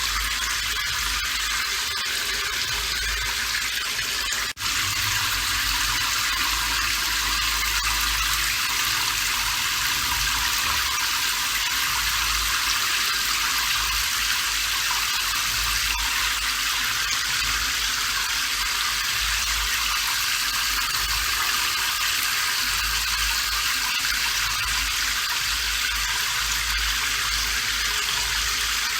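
Steady rain falling, an even hiss with a low rumble underneath, broken by a momentary dip in level about four and a half seconds in.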